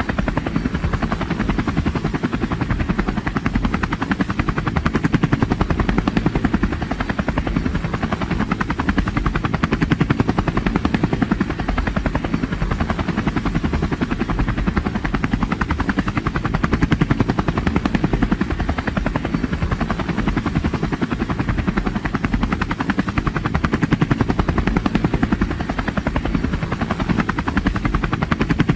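Multirotor drone's propellers and motors running steadily with a fast, even chopping buzz that swells and eases every few seconds.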